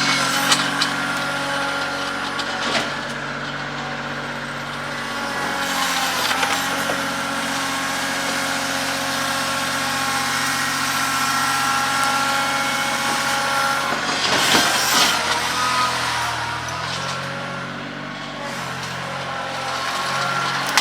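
Kioti CK2610 compact tractor's three-cylinder diesel engine running under load, its engine speed shifting a couple of times, with a couple of knocks.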